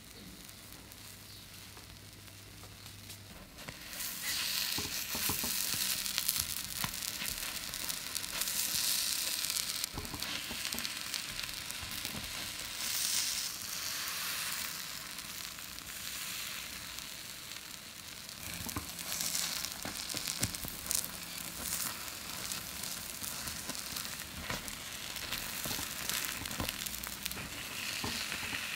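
Takoyaki batter frying in a hot takoyaki pan: a steady sizzle that gets much louder about four seconds in, with light clicks and scrapes from bamboo skewers turning the balls.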